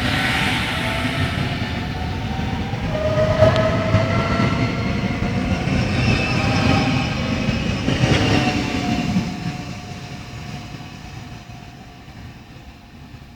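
Trenord TSR suburban electric train running: a rumble of wheels on rail with a faint electric whine from the drive, fading away over the last few seconds.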